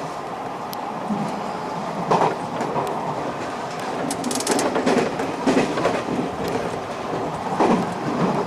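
Electric commuter train running at speed on an elevated line, heard from its front car: a steady rumble of wheels on rail, broken by sharp clacks over rail joints and points, the loudest about two seconds in, around the middle and near the end.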